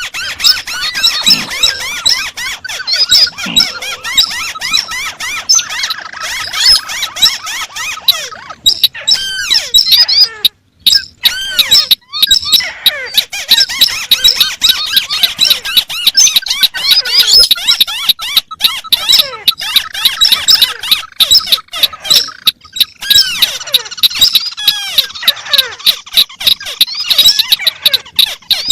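Recorded calls of paddy-field crakes (tikusan) layered together: many rapid, overlapping squeaky chirps and clicking trills that never fall into one rhythm. There is a short pause about ten seconds in.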